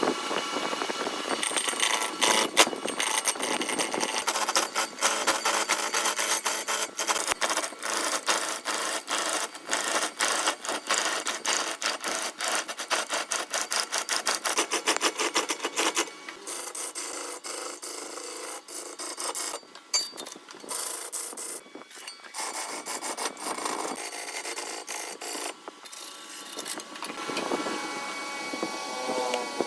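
A hand tool (saw, rasp or sandpaper) worked back and forth on doussie hardwood in quick, repeated scraping strokes.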